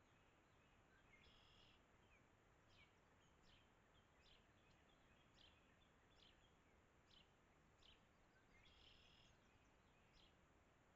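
Faint bird calls over a steady low hiss: short high chirps repeated roughly once a second, with two longer, fuller calls, one about a second in and another about eight seconds later.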